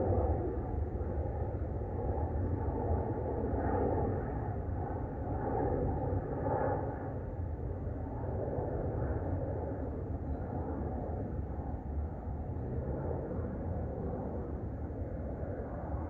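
Distant thunder rumbling: a low, continuous rumble that swells and fades slowly.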